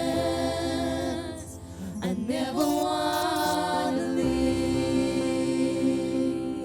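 Slow worship music: long held sung notes over sustained accompaniment chords, with a short sliding vocal run about two seconds in.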